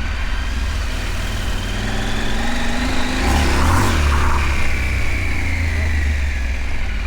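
Adventure motorcycle's parallel-twin engine running under way, its pitch rising as it accelerates, with a brief rush of noise about halfway through.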